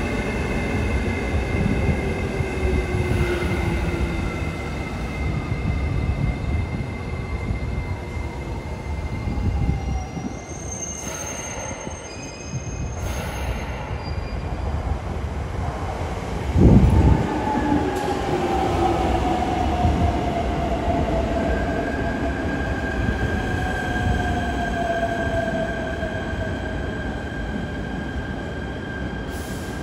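An electric train running in along the station platform and slowing, its motor whine falling in pitch, with high brake and wheel squeal. There is a short, loud low thump about seventeen seconds in.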